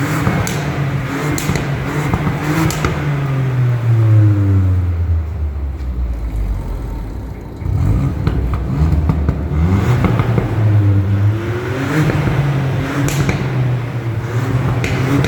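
Ford Puma ST's turbocharged 1.5-litre three-cylinder engine and exhaust revving: the pitch climbs, falls away over a few seconds, dips, then rises again and holds at higher revs. A few sharp cracks come through near the start and near the end.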